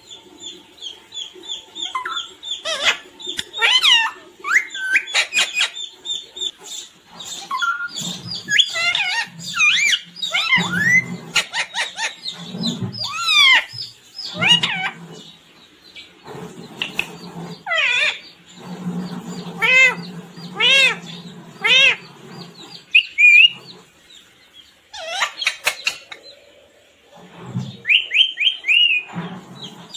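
Pet parrot calling: a long string of sharp squawks and whistled calls that glide up and down, with short pauses between bursts.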